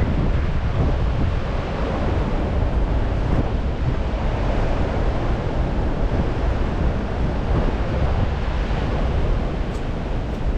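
Strong wind rumbling and buffeting on the microphone over a steady wash of rain.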